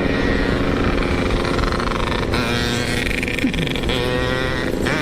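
Yamaha RX-King 135cc two-stroke motorcycle engine running at speed under way, its pitch rising twice as the throttle opens.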